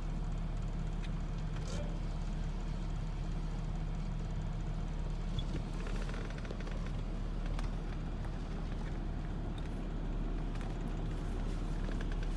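GMC Yukon's V8 engine idling steadily, heard from inside the cabin as a low hum, with a few faint clicks.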